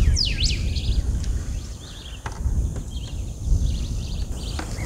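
Birds calling: a few quick sweeping whistles just after the start, then short chattering notes, over a steady low rumble.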